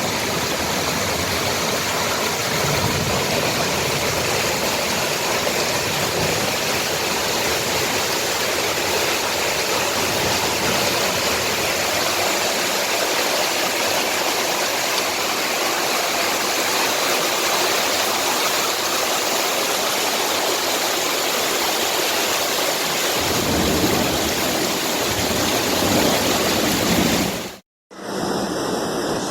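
Heavy storm downpour: a loud, steady rush of pouring water. It cuts out briefly near the end, then resumes.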